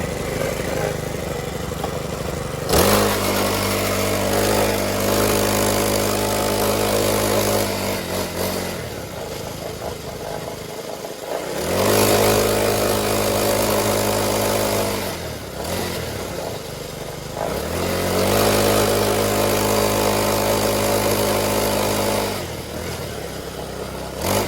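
Small motorcycle engine, just started after priming, running and being throttled in turns: three times it rises quickly to a steady higher speed, holds it for several seconds, then drops back to idle, and it starts rising again near the end.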